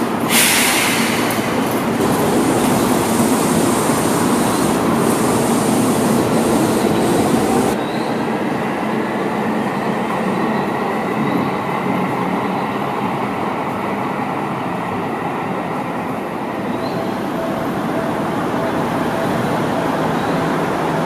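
Seibu 2000-series electric commuter train at a station. A sudden, loud hiss starts just after the beginning and cuts off abruptly about eight seconds in, then steady train running noise follows.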